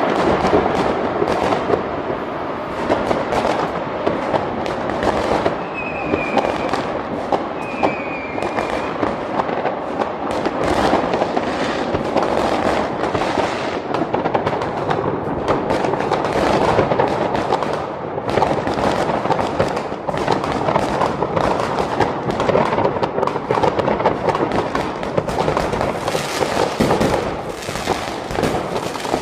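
Many fireworks and firecrackers going off at once in a dense, continuous crackle of bangs and pops. Two brief whistles come about six and eight seconds in.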